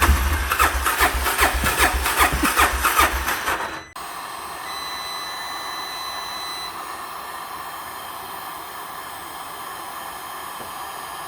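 ATV engine that has just caught on a cold start after repeated failed pulls, running with rapid low firing pulses for about four seconds before fading. Then an abrupt cut to a steady, even hiss.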